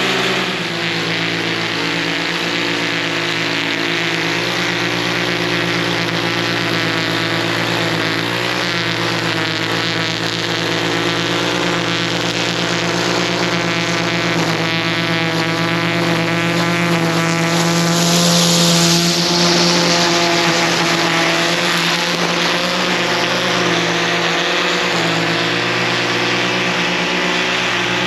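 An engine running steadily at a constant speed, with a brief rise in hiss and loudness about two-thirds of the way through.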